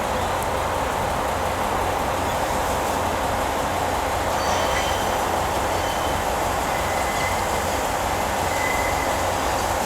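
A train moving slowly through a station, a steady running hum with thin high wheel squeals starting about halfway through and again near the end.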